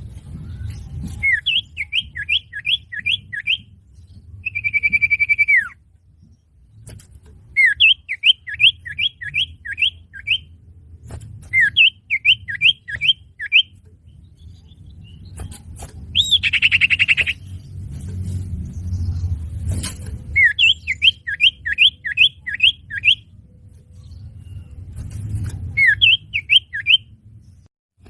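Male common iora song: phrases of five to seven quick, down-slurred whistled notes repeated every couple of seconds, with a longer falling whistle and a brief harsh call between phrases. A low hum runs underneath.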